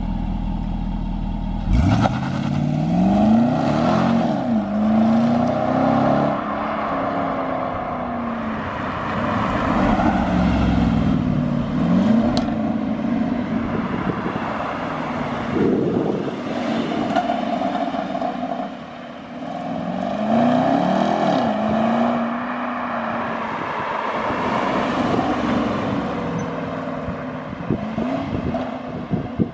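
Naturally aspirated 5.0-litre V8 of a stock 2011 Jaguar XK revving up and dropping back several times through its factory exhaust, mufflers still fitted. The engine note jumps up suddenly about two seconds in.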